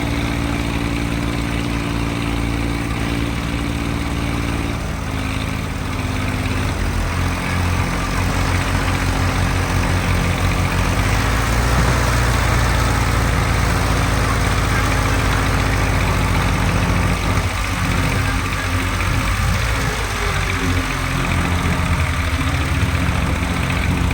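Tractor diesel engine running steadily; its note shifts about five to seven seconds in, and it grows louder and rougher after that.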